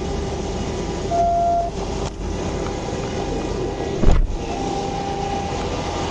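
Steady highway traffic noise with a constant hum. A short high beep sounds a little after one second, and a brief loud low whoosh comes about four seconds in.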